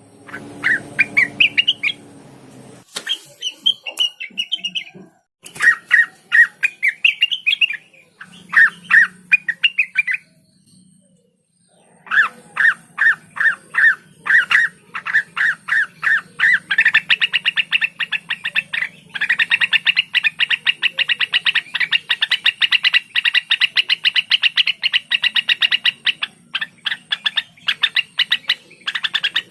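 Cucak wilis (greater green leafbird) singing: phrases of quick, sharp, chattering notes, a pause of about two seconds, then a long, fast, even run of repeated notes.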